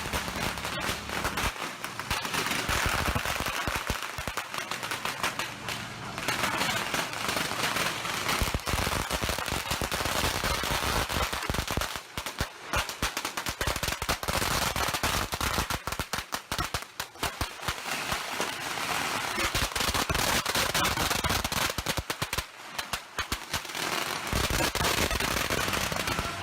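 Strings of firecrackers going off in long, rapid crackling volleys, with brief lulls about 12, 17 and 23 seconds in.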